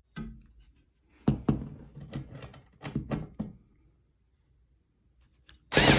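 A run of sharp knocks and clicks from tools and hardware being handled at an old ceiling fan's mounting screws, followed by one short, loud burst near the end.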